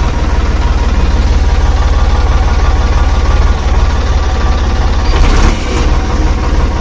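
Miniature DIY tractor's motor running steadily with a fast low pulsing, driving a small homemade flour mill, with a brief rattle about five seconds in.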